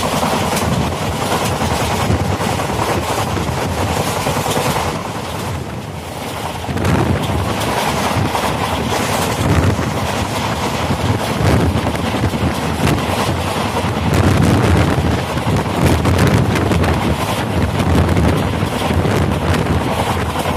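Wind buffeting the microphone over the rumble and clatter of a passenger coach's wheels on the rails as the train runs at speed. It drops slightly about five to six seconds in, then grows louder again.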